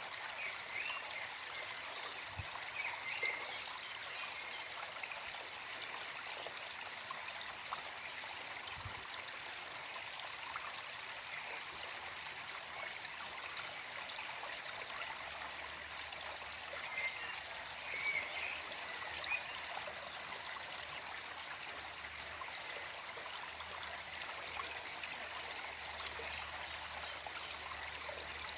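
Small forest stream flowing and trickling steadily, with a few brief brighter gurgles now and then.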